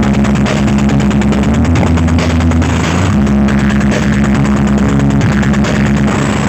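Loud, bass-heavy electronic music with a fast beat, played through the Blizzard 'horeg' sound system.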